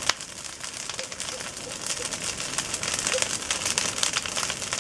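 Bonfire crackling: a dense, irregular run of snaps and pops from burning wood, with one sharp crack right at the start.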